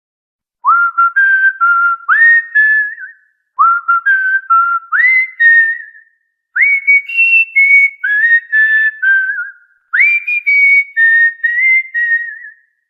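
A whistled tune in clear, pure notes: four short phrases, each opening with a quick upward swoop and then a few held notes, with brief pauses between them.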